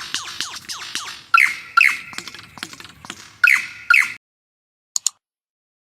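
Superb lyrebird song: a rapid run of repeated falling notes, then four loud, sharp calls over a steady high tone, stopping abruptly about four seconds in. A brief double click follows near the end.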